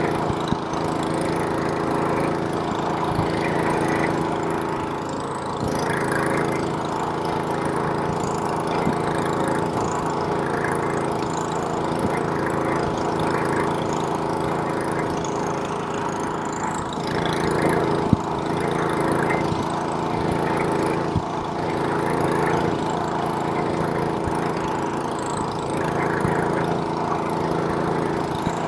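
Small-engine snowblower running steadily at a constant speed. There is a single sharp click about two-thirds of the way through.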